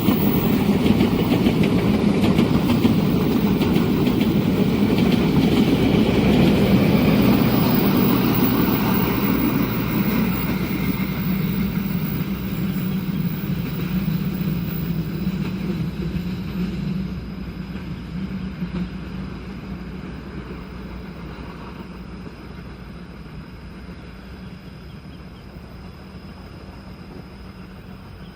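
Passenger train passing at speed, a steady noise of wheels on rail that fades away over the second half as the train moves off.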